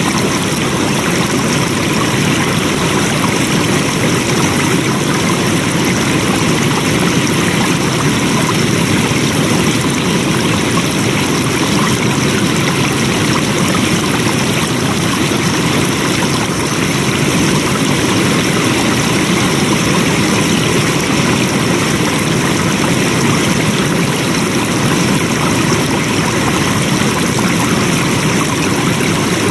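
Flowing water rushing steadily, a continuous stream-like rush with no change over the whole stretch.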